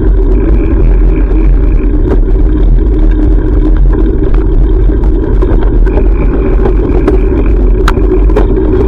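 Loud, steady rumble of wind and road noise on a GoPro's microphone while cycling, with a few faint clicks.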